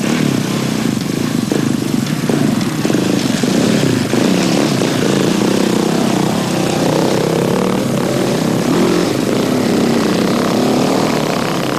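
Enduro motorcycle engines revving hard, the pitch rising and falling with the throttle. From a few seconds in, two bikes are heard at once.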